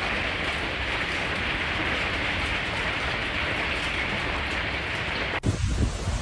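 Heavy hailstorm: a dense, steady hiss of hailstones pouring down. About five seconds in it cuts off suddenly, giving way to low wind rumble and gusts.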